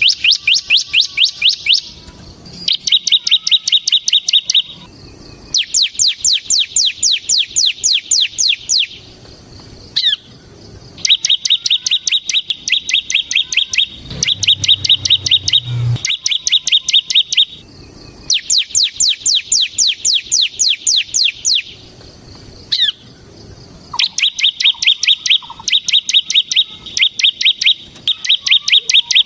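Bar-winged prinia (ciblek) singing its fast, rattling trill: repeated bursts of two to three seconds of rapid, evenly spaced high notes, about eight a second, with short pauses between bursts.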